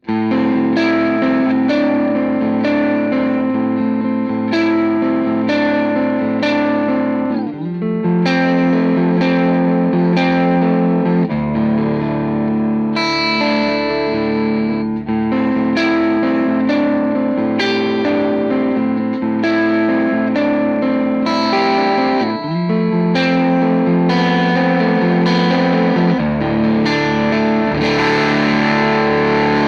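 Electric guitar through an EarthQuaker Devices White Light overdrive pedal and a tube amp, playing distorted chord riffs with steady, rhythmic strums. The chord shifts every few seconds.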